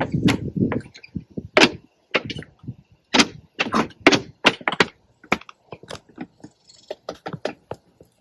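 An irregular string of sharp clicks and knocks from objects being handled, a dozen or more across several seconds.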